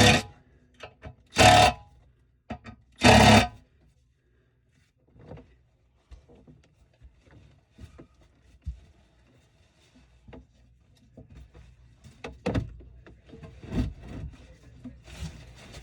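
Three loud rasping strokes in the first few seconds, each about half a second long, then scattered light knocks and clicks.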